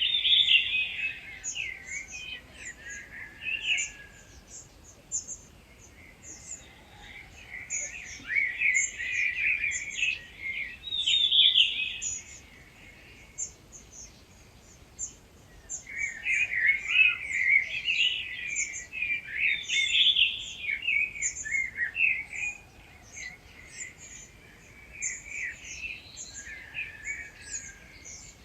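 Dawn chorus of wild songbirds. One bird close by sings fast, varied phrases a few seconds long, four times, with short pauses between them. Under it runs a steady scatter of thin, very high chirps.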